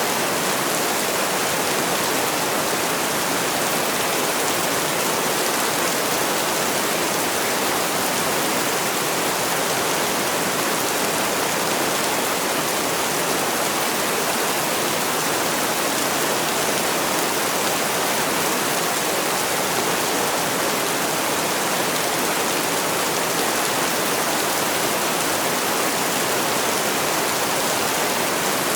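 Heavy rain falling: a steady, unbroken hiss of dense rainfall.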